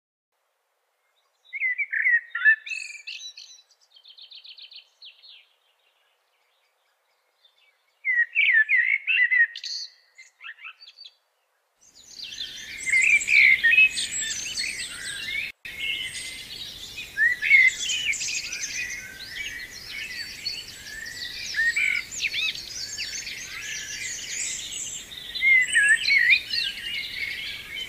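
Wild birds singing: two separate song phrases with silence between, the first ending in a quick even trill. From a little before halfway, a dense chorus of many birds singing at once over faint background noise.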